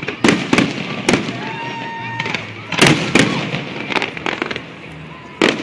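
Fireworks display: aerial shells bursting in a series of about seven sharp bangs, with crackling and a brief whistle between them.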